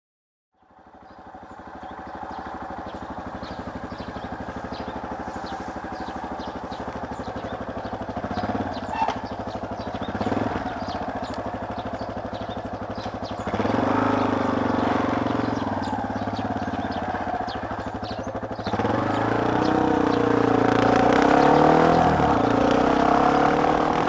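Yamaha Serow's single-cylinder engine running on the move, fading in at the start. It gets louder about halfway through and again later, where its pitch rises and falls with the throttle.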